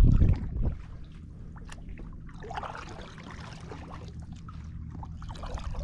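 Water trickling and splashing softly around a kayak, with scattered small clicks, after a short burst of wind rumble on the microphone at the start.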